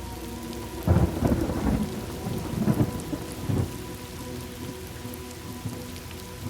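Steady rain with a rolling thunder rumble that breaks about a second in, swells a few times and dies away after about four seconds.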